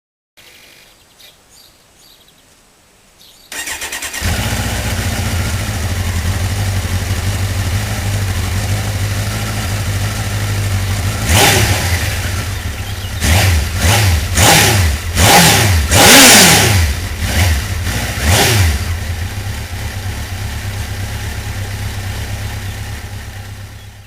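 Kawasaki Z1000 motorcycle's inline-four engine starting about four seconds in and idling steadily. It is revved in about six quick throttle blips, then settles back to idle. The sound cuts off just before the end.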